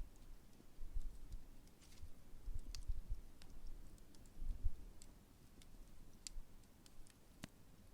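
Campfire burning down, with sparse, irregular crackles and pops from the burning wood over a low, uneven rumble.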